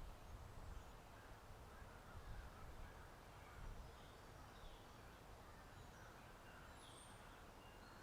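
Faint outdoor ambience: a steady low wind rumble with scattered short, distant bird calls.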